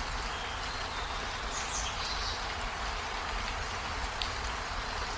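Steady rain falling, an even hiss with no change in level, with a few faint high chirps over it, the clearest about two seconds in.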